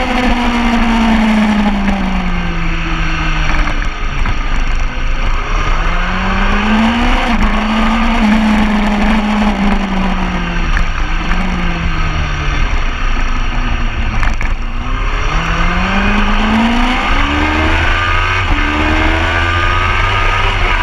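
Sport motorcycle engine at racing speed, its pitch repeatedly dropping under braking and climbing again under acceleration, with a run of quick rising steps as it shifts up through the gears near the end. A steady rush of wind noise runs underneath.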